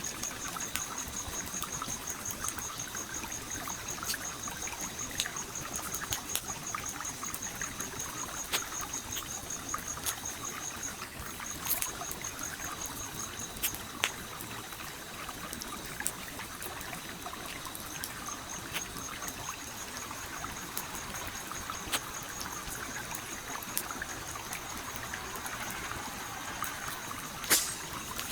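Wood campfire crackling with scattered sharp pops over a gently trickling stream; one louder pop comes near the end. A high, fast-pulsing trill runs behind it, breaking off briefly twice.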